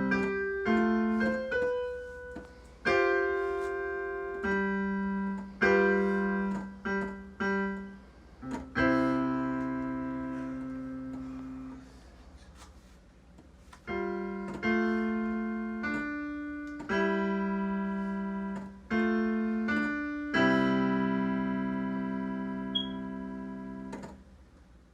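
Piano played in a slow piece of struck chords and held notes, ending on a long sustained chord that rings out and fades near the end.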